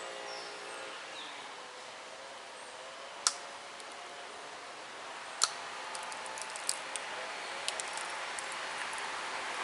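Pressure flaking tiger chert with a copper-tipped pressure flaker: sharp clicks as small flakes snap off the edge, two louder ones about three and five seconds in, then a quick run of lighter ticks.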